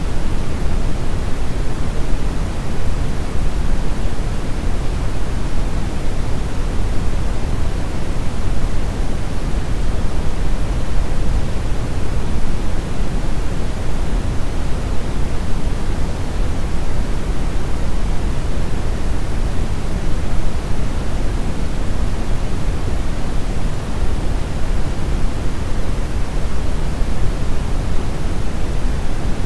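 Steady brown noise: an even, unchanging rumbling hiss, strongest in the bass and falling off toward the treble.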